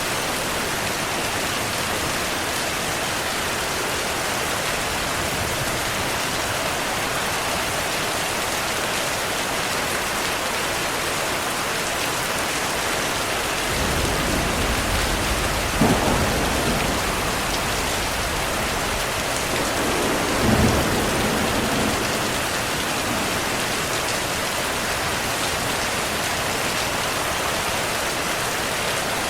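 Steady rain falling, with a roll of thunder about halfway through: a low rumble builds, two louder claps come about five seconds apart, and the rumble then fades.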